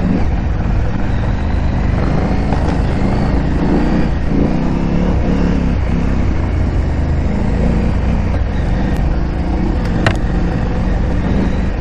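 KTM 890 Adventure R parallel-twin engine running at low revs while the motorcycle is ridden off-road, its note rising and falling a little. There is one sharp click about ten seconds in.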